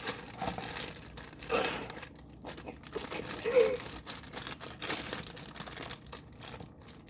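Brownie mix packaging crinkling and rustling with irregular crackles and some tearing as it is worked open by hand.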